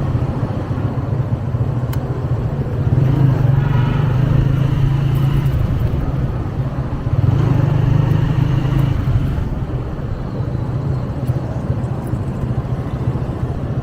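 Small 125cc motorcycle engine running steadily on the move, with wind and road noise; it grows louder twice, about three seconds in and again about seven seconds in.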